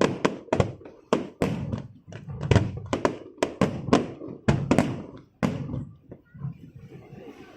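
Fireworks going off in quick succession: many sharp bangs, several a second, each with a short echoing tail, thinning out about six seconds in.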